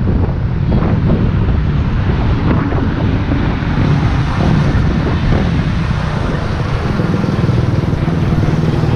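Wind buffeting the microphone of a moving rider, a steady low rumble mixed with road and traffic noise.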